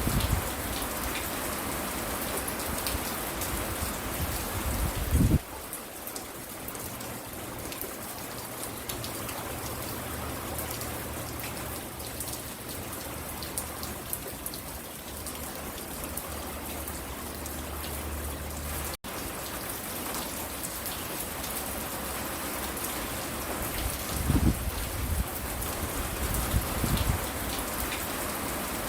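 Steady rain falling and pattering on a porch, with individual drops ticking through the hiss. Low rumbles swell about five seconds in and again near the end, and the sound cuts out for an instant about two-thirds of the way through.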